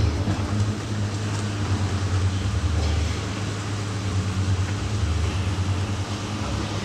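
Steady mechanical hum of dairy milking-shed machinery running during milking, a low, even drone with a few fixed tones above it.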